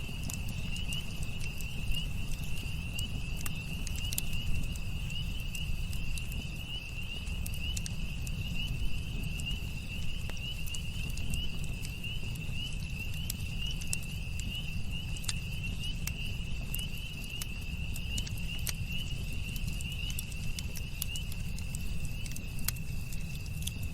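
Campfire crackling, with scattered sharp pops and snaps over a low steady rumble, while a cricket trills steadily and high-pitched in the background.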